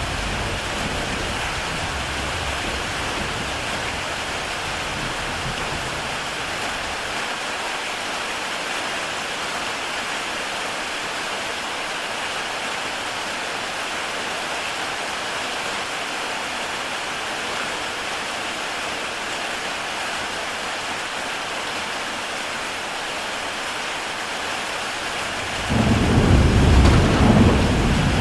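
Heavy rain pouring steadily on a tile roof. A low rumble underneath fades out in the first several seconds, and a louder low rumble starts suddenly a few seconds before the end.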